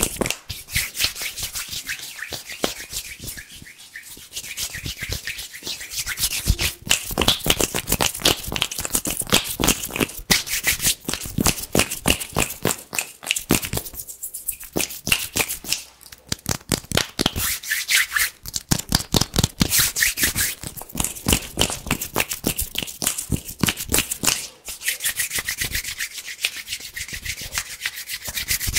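Fast, vigorous hand sounds close to the microphone: skin rubbing and brushing in rapid, crisp strokes, with a few brief lulls.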